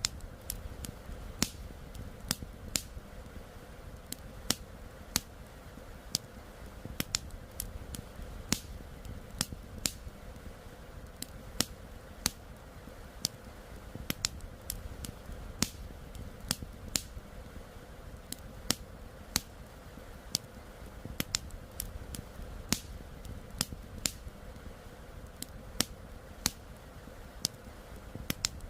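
Campfire crackling: wood popping and snapping in irregular sharp cracks, about two a second, over a steady low rush.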